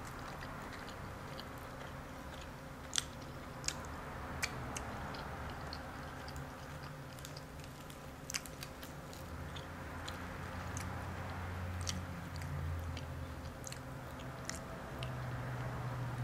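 Close-miked chewing and biting of fried mojarra, wet mouth sounds with a little crunch. A metal fork clicks sharply against the platter a few times about three to four and a half seconds in.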